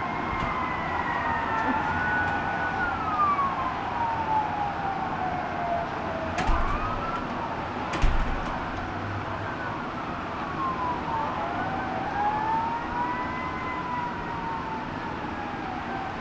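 Several emergency-vehicle sirens wailing at once, their pitches slowly rising and falling and overlapping. Two short thumps come about six and eight seconds in.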